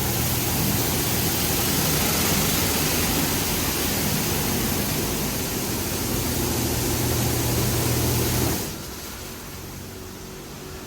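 High-pressure water jets of an Oasis Typhoon touchless car wash spraying the car, a steady hiss of water over a low pump hum. The spray cuts off sharply about eight and a half seconds in, leaving a quieter hiss.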